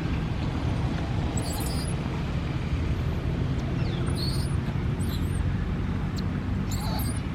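Steady low outdoor rumble, with a few short, very high chirps or squeaks at intervals.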